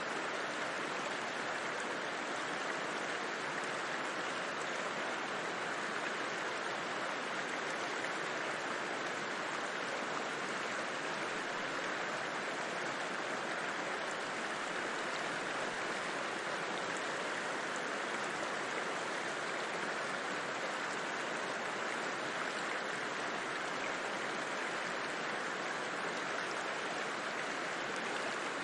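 River water rushing and burbling over rocks, a steady, unbroken flow.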